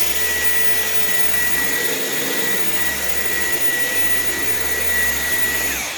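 Dyson V11 Absolute cordless stick vacuum running on boost mode: a steady loud rush of air with a constant high whine. Near the end it is switched off and the whine drops away as the motor winds down.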